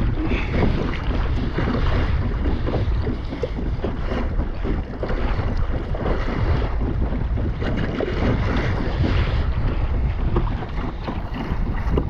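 Wind buffeting the microphone over water splashing and rushing against a kayak's hull as it moves across the open ocean.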